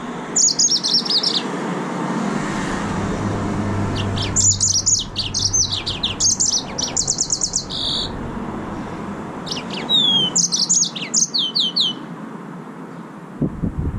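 Yellow-fronted canary (green singing finch) singing in three bursts of fast, high, sweeping notes: a short one near the start, a longer one of about four seconds, then one of about two seconds. A steady low background hiss runs underneath.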